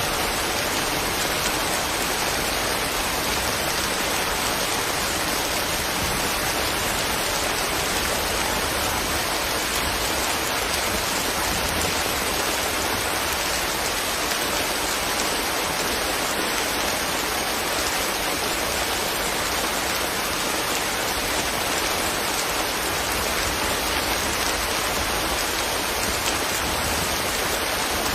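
Steady rain falling, an even unbroken hiss of drops that neither builds nor fades.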